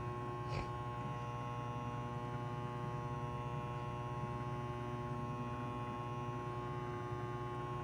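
Microwave oven running off a 2000-watt power inverter, with a steady electrical buzz and hum. The buzz is put down to a 12-volt battery not giving enough power. There is a single short click about half a second in.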